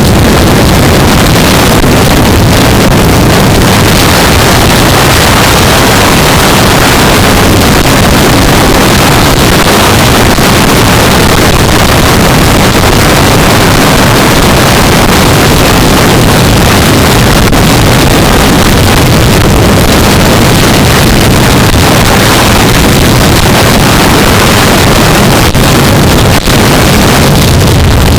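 Wind rushing over a helmet camera's microphone at riding speed, a loud steady roar mixed with the running of a 2015 Yamaha R3 motorcycle. There is a brief drop in level about 26 seconds in.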